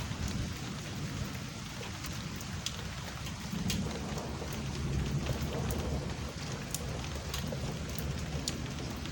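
Steady rain falling during a thunderstorm, with individual drops ticking sharply. A low rumble of thunder swells in the middle and fades.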